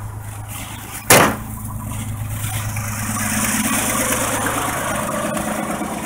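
1985 Ford F-150's 300 cubic-inch inline-six idling steadily. A single sharp knock about a second in is the loudest sound. From about two and a half seconds a rushing noise rises and then holds over the idle.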